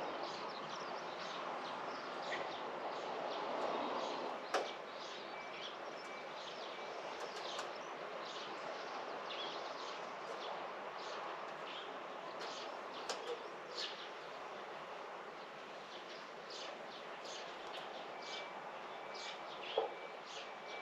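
Small birds chirping and twittering throughout over a steady background hiss of outdoor noise, with a sharp click about four and a half seconds in and another near the end.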